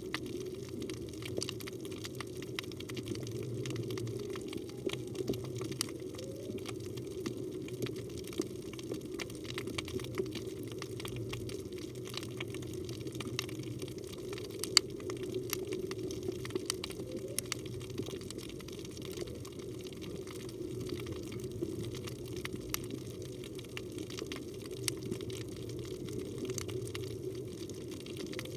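Underwater ambience of a reef in current: a steady low rush of moving water with scattered crackling clicks throughout. A few faint short rising tones come through around five and seventeen seconds in.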